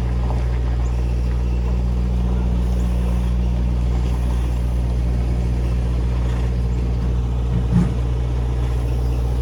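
A vehicle engine idling steadily at close range, with a brief thump about three quarters of the way through.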